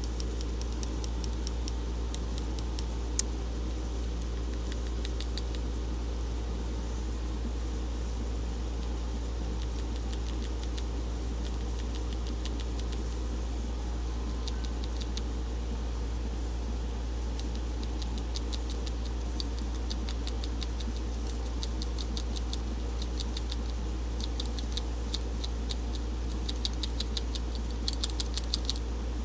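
Steady low mechanical hum with scattered light clicks and ticks on top, the clicks more frequent in the last ten seconds or so.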